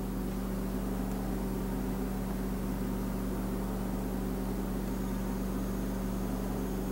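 Steady low hum with a faint hiss: constant background machine or electrical noise, no distinct events.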